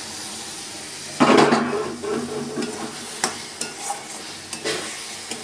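Raw mutton liver pieces frying in hot oil and spice paste in a kadai, stirred with a metal spatula: a steady sizzle, a loud surge of sizzling and scraping about a second in, then a few sharp clicks of the spatula against the pan.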